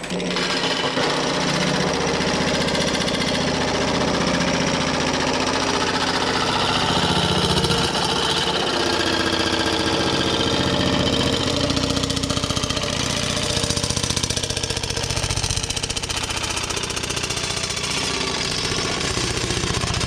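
Pullmax reciprocating sheet-metal machine running, its custom dies hammering a steel panel in rapid, even strokes without a break, shaping a patch panel.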